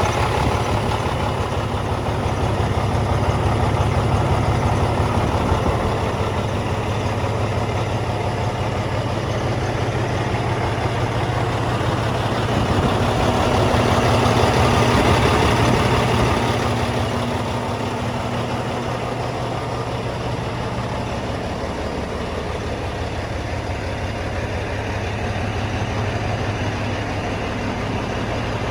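Caterpillar C-16 diesel engine of a 2003 Oshkosh Striker 3000 aircraft rescue truck running steadily at a deep idle. It swells louder for a few seconds around the middle.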